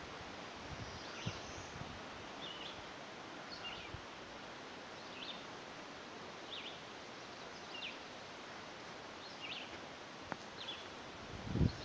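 A small bird calling over and over, a short chirp about once a second, over a steady outdoor hiss. A low bump near the end, likely handling or a footstep, is the loudest thing.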